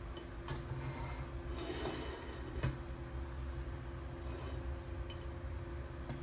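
Hands working with small hard parts: light rubbing and clinks, with one sharp click a little over two and a half seconds in, over a steady low hum.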